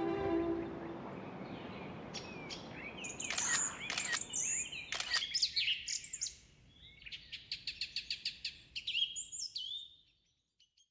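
Small birds chirping and calling, a mix of short whistles and quick notes, with a couple of sharp snaps about three to five seconds in and a fast run of repeated notes later on.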